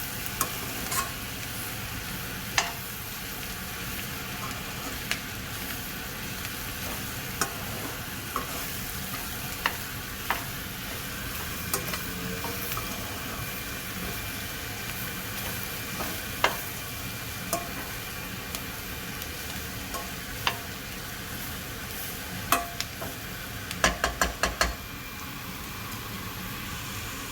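Vegetables and garlic frying in oil in a pan, a steady sizzle with scattered crackles and pops. A quick run of knocks from a stirring utensil against the pan comes near the end.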